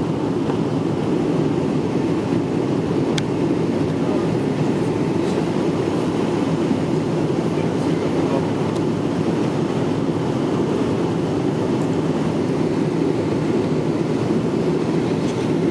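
Steady cabin rumble inside a Boeing 777-300ER airliner: engine and airflow noise holding an even level through the landing, with one faint click about three seconds in.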